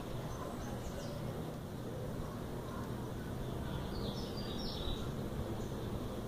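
Steady low background rumble, with a faint bird chirp about a second in and a short cluster of faint, high chirps around four seconds in.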